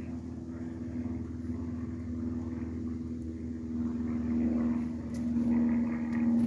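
A motor vehicle's engine droning steadily, growing louder toward the end as it draws nearer.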